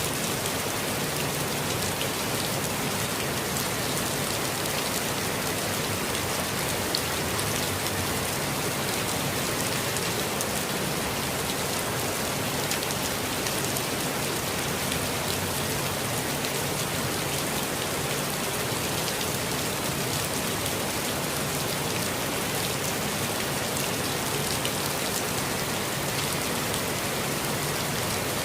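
Steady, gentle rain falling in a forest, an even hiss with scattered drops pattering on surfaces.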